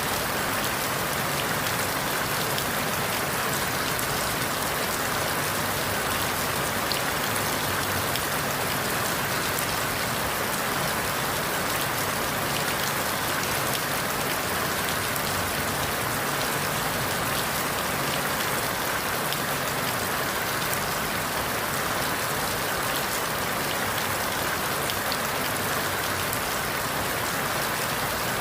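Steady rain falling through forest leaves, a dense even hiss with many fine drop ticks and no pauses or swells.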